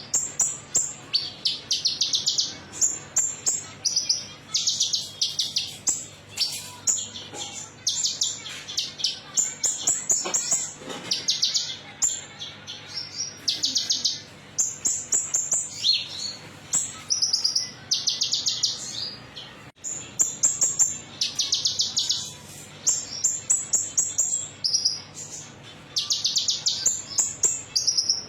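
Konin metalik songbird singing: short bursts of fast, high-pitched trilled chirps, repeated phrase after phrase with brief gaps. It is a lure song (pancingan), played to get caged birds singing.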